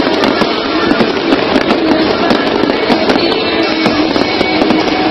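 Fireworks bursting and crackling in a dense, continuous barrage, with music playing alongside.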